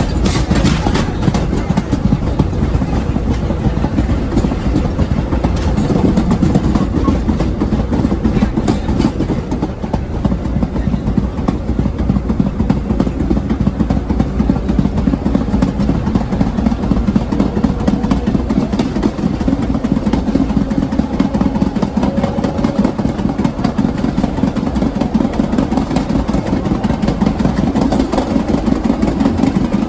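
Vintage R1/9 subway car running, heard from on board: a steady rumble of wheels on rail with scattered clicks.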